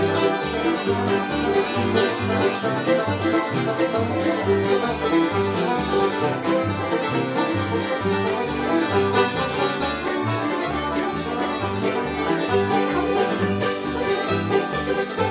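Bluegrass instrumental: banjo picking rapid rolls over strummed guitar, with a steady pulse of low bass notes.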